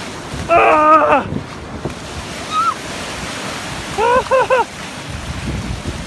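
Ocean surf washing up the beach, with wind on the microphone, while a person shrieks about half a second in and lets out a quick run of short squeals around four seconds in.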